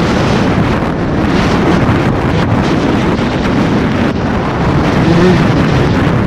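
Heavy wind buffeting on the microphone over a 125 cc motocross bike's engine running on the track. The engine's pitch shows faintly near the end, rising as it picks up.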